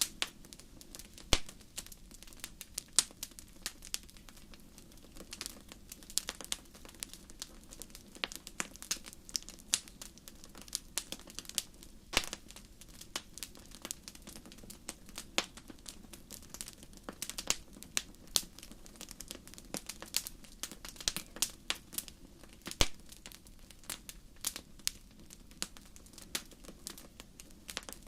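Fire crackling: irregular sharp pops and snaps, a few much louder than the rest, over a faint steady low rumble.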